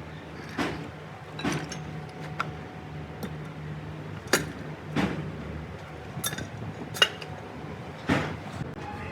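Metal tools and parts clinking and knocking against each other at irregular intervals, about eight sharp clinks, over a steady low hum.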